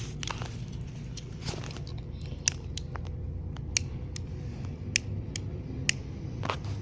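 A hand lighter being clicked again and again, seven or so sharp clicks at uneven intervals, without catching. A low steady rumble runs underneath.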